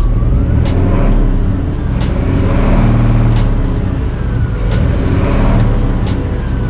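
Diesel truck engine running loudly, its pitch and level swelling up and falling back, with regular faint ticks over it.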